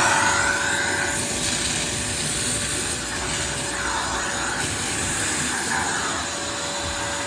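Wet vacuum running steadily, a loud hissing rush with a steady motor whine.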